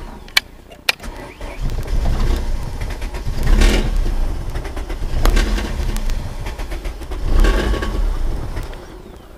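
1994 Ford Escort GT's 1.8-litre four-cylinder engine cranking and sputtering in three long surges with dips between them as the gas pedal is pumped, struggling to catch after sitting with its distributor just rebolted. Two sharp clicks under a second in.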